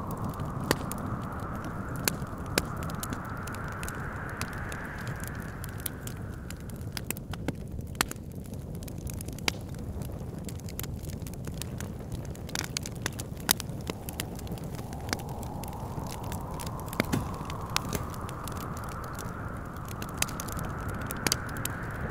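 Wood fire crackling with scattered sharp pops, over wind that swells into a whistling gust and fades, twice.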